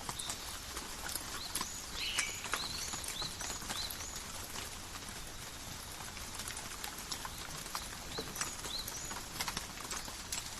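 Light rain falling in a forest: a steady hiss with many small drops tapping and pattering on leaves. Birds give short high chirps now and then, several in a row around two to four seconds in and a couple more near the end.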